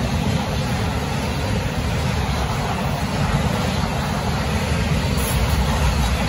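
Freight cars rolling past, a steady rumble of steel wheels on the rails.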